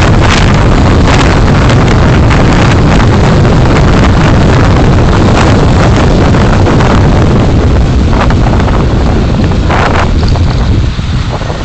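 Loud, steady road and wind noise from a moving car, picked up by a dashcam microphone, easing off slightly near the end.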